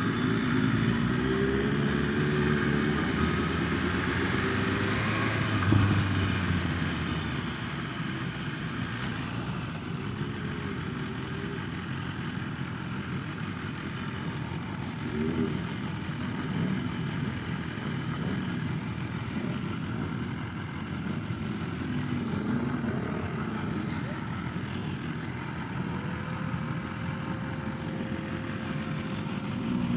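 BMW S1000RR's inline-four engine running under way, its pitch rising and falling with the throttle, heard through a rush of wind on a face-mask microphone. It is loudest in the first several seconds, and near the end it settles to a steady tone.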